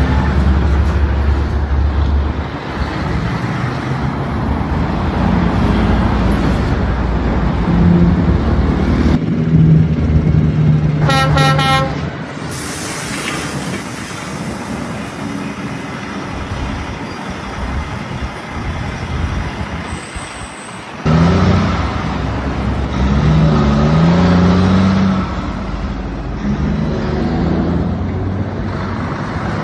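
Heavy truck engines and road noise, changing abruptly at several points. About eleven seconds in, a horn sounds in several quick toots.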